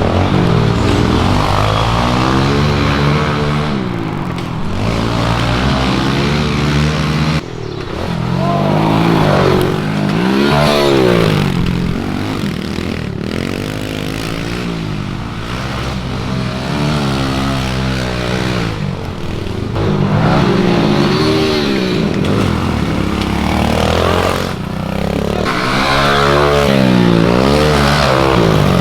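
Kawasaki KLX110 pit bike's small four-stroke single-cylinder engine being ridden hard, revving up and falling back again and again as the throttle opens and closes.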